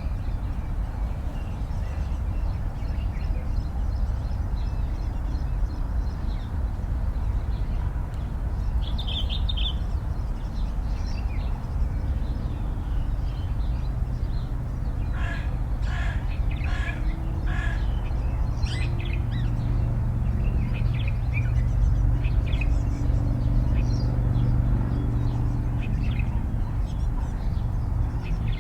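Outdoor nature ambience: a steady low wind-like rumble with scattered bird calls. About halfway through, a bird gives four calls in quick succession, and a low steady hum comes in under it for the rest of the stretch.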